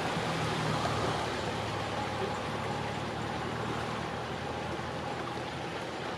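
An engine running steadily at low revs over a rushing wash of noise, slowly fading.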